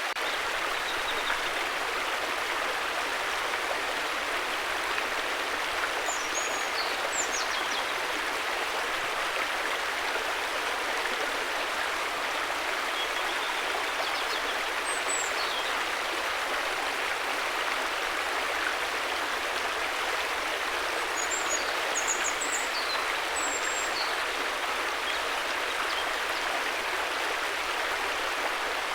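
River water flowing steadily, with faint high bird chirps a few times.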